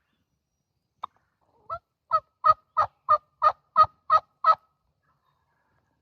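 A run of about ten turkey yelps, about three a second, the first two soft and the rest loud and evenly paced.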